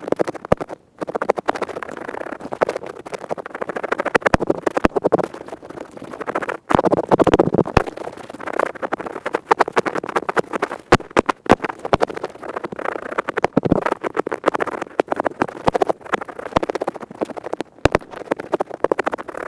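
An ear pick scraping rapidly inside an ear, recorded close up: fast, dense scratching with many sharp crackling clicks, breaking off briefly a few times.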